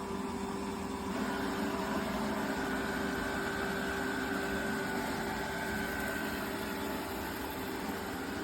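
iRobot Roomba Combo Essential robot vacuum running: a steady motor hum and whir, with a faint higher whine for a few seconds in the middle.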